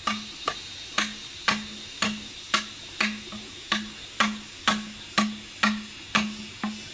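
A steady run of sharp knocks, about two a second, each followed by a brief low ringing, like a tool striking repeatedly on a hard surface.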